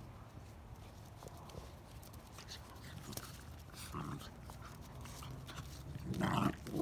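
Andalusian bodeguero puppies play-wrestling: light scratches and taps, a short sound about four seconds in, and a brief, louder puppy cry a little after six seconds.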